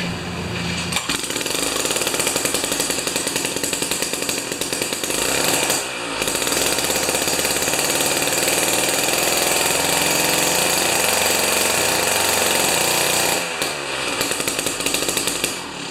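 Jiffy 30 ice auger's 3 hp two-stroke Tecumseh engine catching about a second in and running loud at high speed, dipping briefly twice and falling off near the end.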